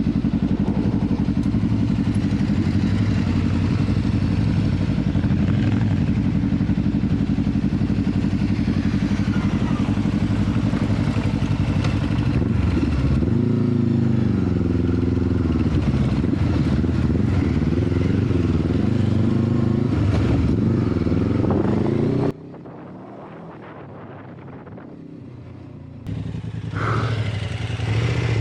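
Motorcycle engine running while being ridden, its pitch rising and falling with the throttle. About 22 seconds in it drops much quieter, and it comes back up a few seconds before the end.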